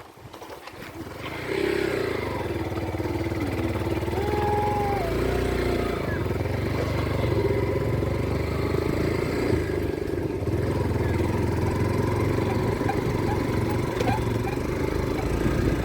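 Motorcycle engine running steadily while riding, coming in about a second and a half in.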